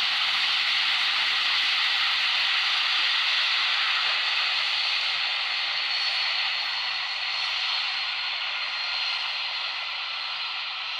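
Jet aircraft engines running with a steady rushing hiss that slowly fades over the last few seconds.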